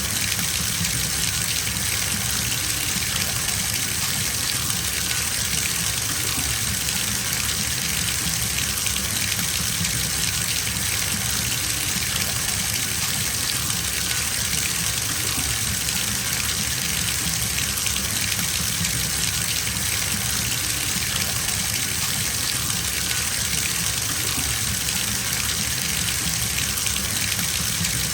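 Bathtub filling from a running tap: a steady, even gush of water pouring into the tub.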